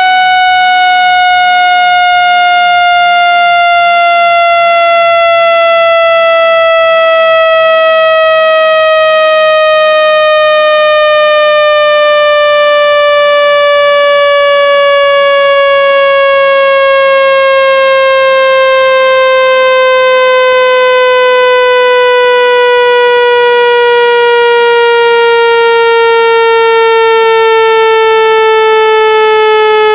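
Synthesized speaker-cleaning tone of the kind played to drive water and dust out of a phone speaker. It is a loud, buzzy tone that slides slowly and steadily down in pitch.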